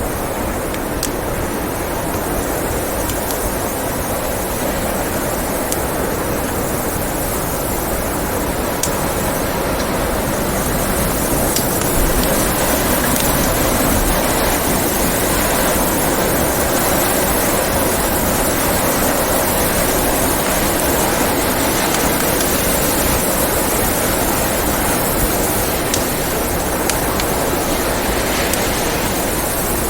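Blizzard wind blowing as a steady rushing noise that swells a little about twelve seconds in, with a few sparse pops from a crackling wood fire.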